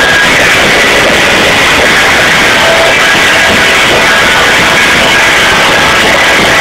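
Live rock band playing loud music, heard through an overloaded microphone as a distorted, clipped wash in which the guitars are barely made out.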